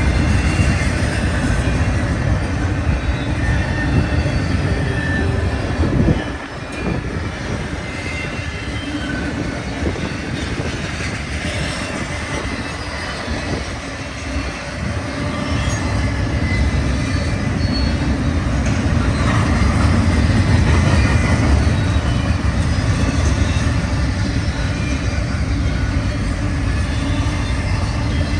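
Intermodal freight train's cars rolling past: a steady rumble of steel wheels on rail with faint wheel squeal, dipping briefly about six seconds in.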